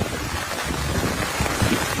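Heavy rain falling steadily, with wind gusting against the microphone in low rumbles.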